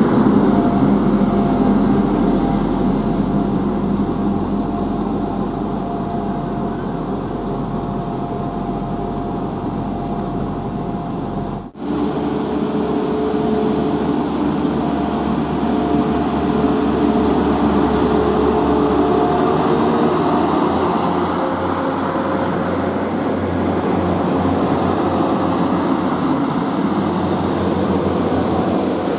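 Steady running noise of a vehicle, with a break about twelve seconds in and a high whine that rises about twenty seconds in and then holds steady.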